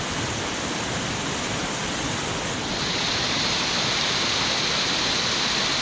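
Steady rush of creek water spilling over a low dam, even and unbroken, with a slightly brighter hiss from about halfway.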